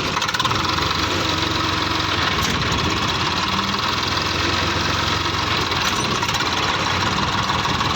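Old Swaraj 855 tractor's three-cylinder diesel engine running steadily.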